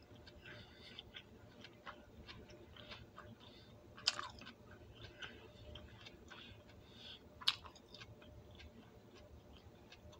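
A person chewing broccoli close to the microphone: small irregular wet clicks and smacks of the mouth, with two sharper, louder clicks about four and seven and a half seconds in.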